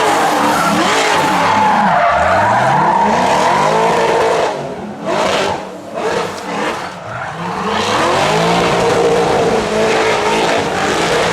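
Drift car engine revving hard with tyres squealing as it slides, the engine note swinging up and down with the throttle. About halfway through it drops back to short blips of throttle, then revs up loudly again with the tyres squealing.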